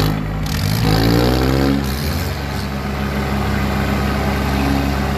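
Tractor engine revving up in the first two seconds, then running steadily under throttle.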